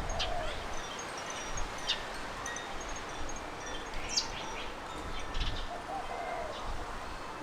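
Garden birds calling: scattered short, sharp high chirps, and a lower warbling call twice, once near the start and once about five and a half seconds in, over a steady background hiss.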